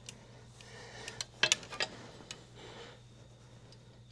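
A few light metal clicks and clinks of hand tools, bunched together about a second and a half in, against a faint steady hum.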